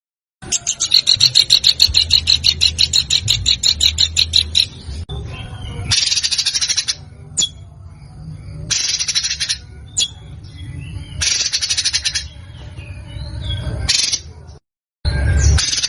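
Songbird song from a masteran recording for training cage birds: a rapid trill of repeated notes, about seven a second, for about four seconds. Then comes a string of short, dense song phrases separated by pauses, with two abrupt silent cuts between segments.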